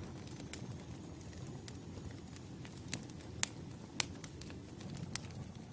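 Campfire burning: a low steady rumble under scattered sharp crackles and pops, a few louder pops about halfway through.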